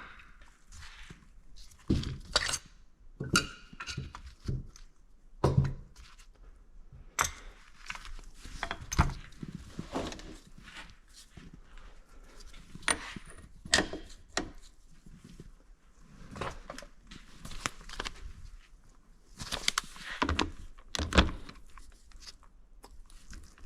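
Hand tools and metal engine parts clinking and knocking irregularly as an engine is taken apart by hand.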